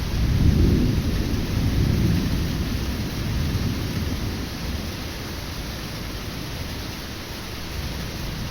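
Thunder rumbling over steady heavy rain: a deep roll of thunder breaks out suddenly at the start, is loudest in the first two seconds, then dies away slowly over the steady hiss of the downpour.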